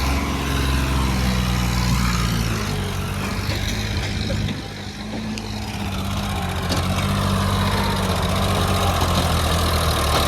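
Sonalika tractor's diesel engine running hard while pulling an overloaded trolley, a steady low note that dips briefly a little before halfway and then holds again.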